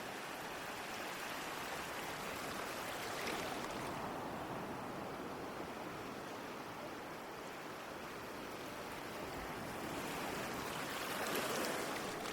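Ocean waves washing ashore in a steady wash of surf, with two waves swelling and breaking, the second about eleven seconds in and the louder of the two.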